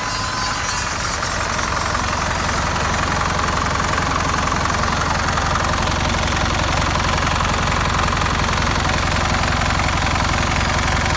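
2002 Hino Dutro truck's diesel engine idling steadily, with a knocking clatter.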